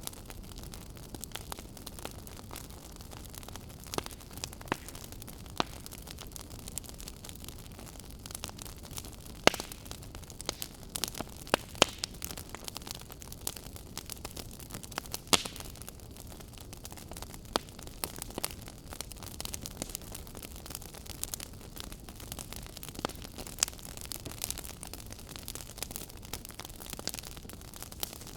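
Fire burning in a fireplace: a steady low hiss with irregular crackles and sharp pops, the loudest pops about ten, twelve and fifteen seconds in.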